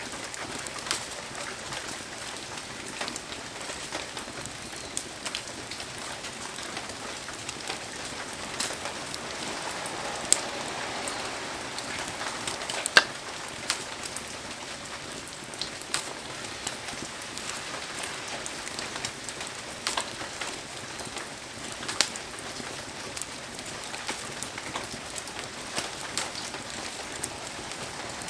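Heavy rain falling steadily, with many sharp pops and ticks scattered through it.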